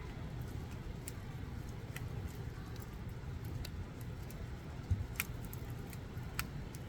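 Campfire burning with a low steady rumble and scattered sharp crackles and pops a second or more apart, the loudest about five seconds in.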